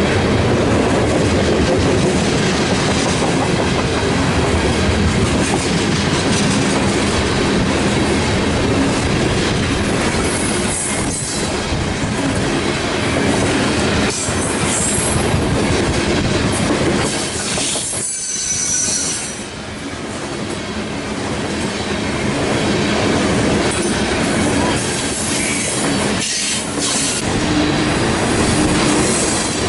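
Freight train tank cars rolling past close by: a steady rumble of steel wheels on rail, with a short high wheel squeal about eighteen seconds in.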